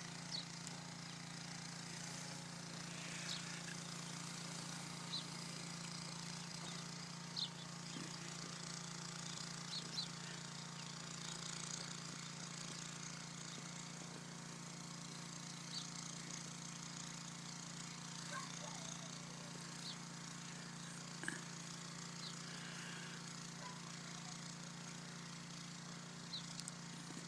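Quiet background with a steady low hum and a faint hiss, broken now and then by small, brief ticks and rustles.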